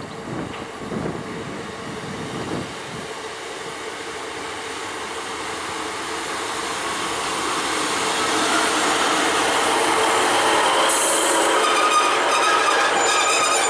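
A GWR Intercity Express Train passing close alongside the platform. Its running noise builds steadily to a loud rush, with high ringing squeal from the wheels and rails in the last few seconds.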